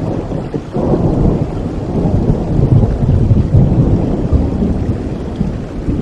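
Rolling thunder over steady rain: a low rumble swells up about a second in, rolls on for several seconds, then eases.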